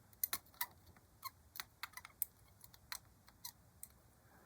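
Tweezers clicking and tapping inside a paint bottle while fishing out the stirrer piece: a string of light, irregular clicks.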